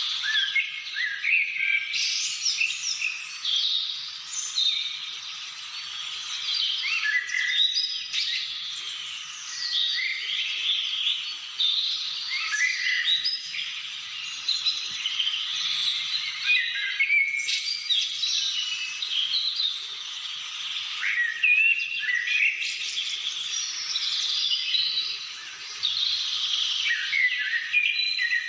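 Several birds singing and calling at once, a dense chorus of quick chirps, short trills and sweeping notes with no pause.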